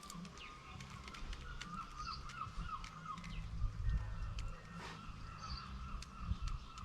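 Garden birds calling, in a wavering run of short chirps, with many scattered sharp clicks and taps among them.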